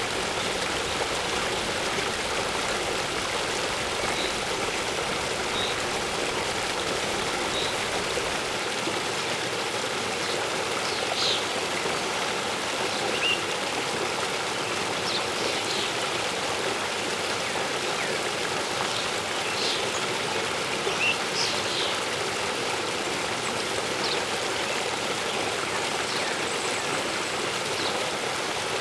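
Waterfall running steadily, an even rush of falling water, with brief bird chirps scattered over it, most of them in the middle stretch.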